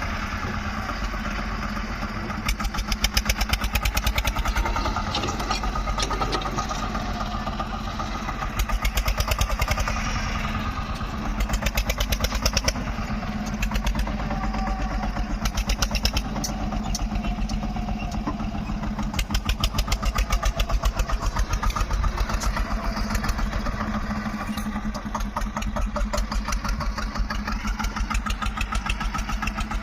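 Tractor diesel engine running with a rapid, even firing pulse, its loudness swelling and easing every few seconds as it is worked harder and then eased off while driving the front loader.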